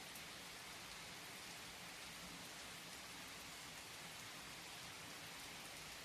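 Steady, soft rain falling, with a faint patter of individual drops.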